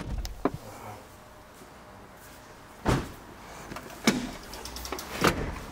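Four short knocks or thumps, a second or so apart after a quiet stretch, over a low background.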